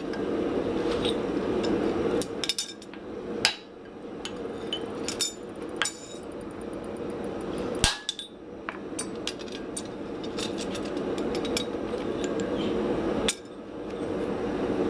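Hammer blows on a hot steel hammer head resting on an anvil, straightening its bent peen: a handful of sharp, widely spaced strikes, the loudest about three and a half and eight seconds in, over a steady rushing background noise.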